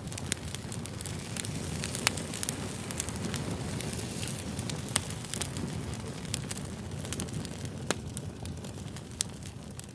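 Fire crackling: a steady low rumble of burning with frequent sharp pops and snaps, a few louder ones about two, five and eight seconds in.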